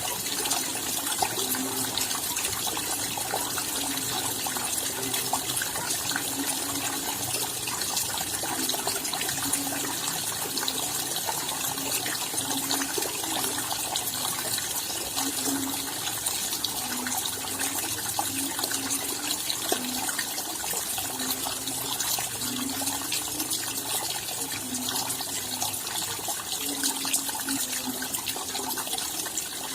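Steady rain: a dense patter of drops, with water running and splashing beneath it.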